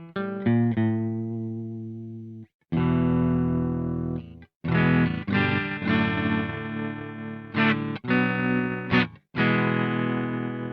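Electric guitar played through a Velouria FX Witchcraft distortion/preamp pedal: distorted chords struck and left to ring out, each choked off abruptly before the next, with a few quicker strums in the middle.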